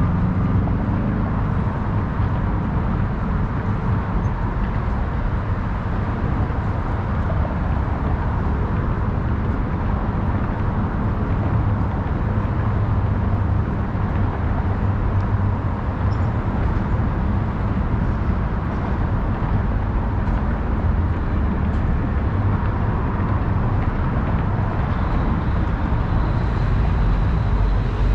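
Steady city ambience dominated by a continuous low rumble of traffic, an even wash of noise with no single event standing out.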